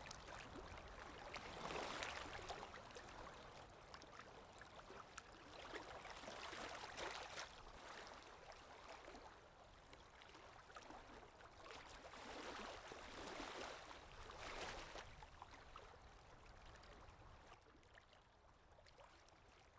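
Faint recorded water sound effect: a stream trickling and gurgling, swelling in gentle surges every few seconds and fading out near the end.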